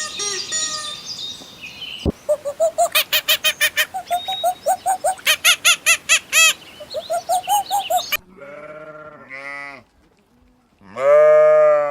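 Rapid, repeated high chirping calls, then from about eight seconds in a few bleats from a goat or sheep, the last and loudest near the end.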